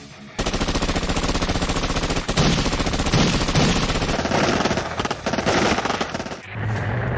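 A rapid, sustained rattle of sharp repeated bangs like automatic gunfire, starting just under half a second in and stopping about six and a half seconds in.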